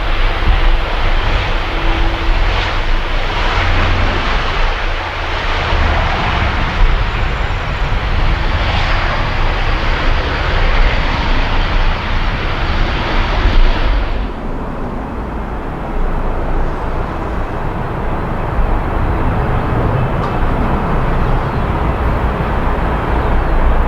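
Jet airliner engines running loud, a dense rushing noise over a deep rumble. About halfway through the high hiss cuts off abruptly, leaving a duller, lower rumble.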